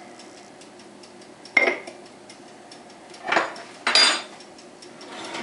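Kitchen dishes and utensils being handled: a sharp clink about one and a half seconds in, then two clattering knocks close together near the end, the last the loudest.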